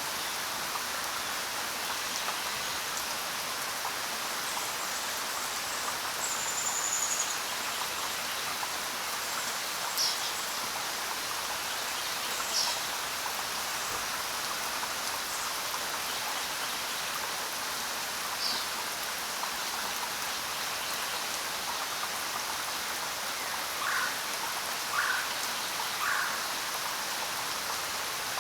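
Steady rain falling on the ground, an even patter throughout, with a few short high chirps scattered through it and three brief softer calls near the end.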